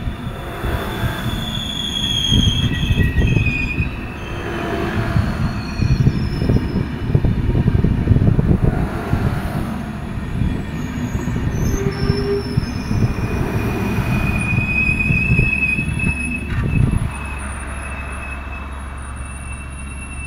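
Passenger coaches of a PKP Intercity train rolling past close by: a heavy rumble of steel wheels on rail with knocks over the rail joints and high wheel squeals now and then. The rumble drops away about seventeen seconds in as the last coach passes.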